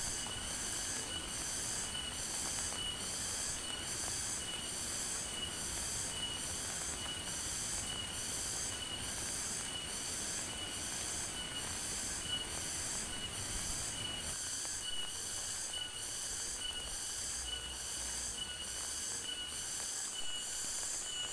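Insect calling in high-pitched pulses that repeat evenly, about one and a half a second, over a thin steady whine.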